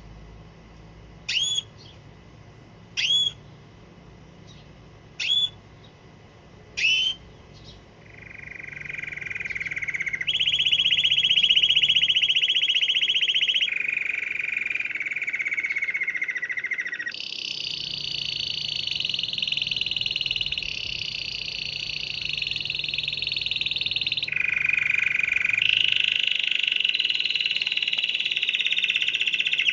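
Canary calling, four short single notes about two seconds apart, then breaking into continuous song from about eight seconds in: long rapid trilled rolls, each held for a few seconds before jumping to a new pitch.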